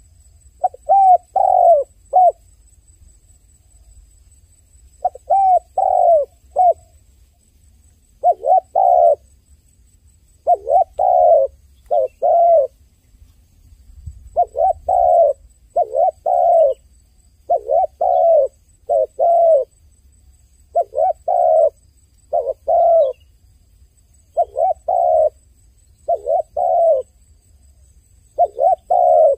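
A dove cooing over and over, in short phrases of two or three coos that repeat about every one and a half to two seconds.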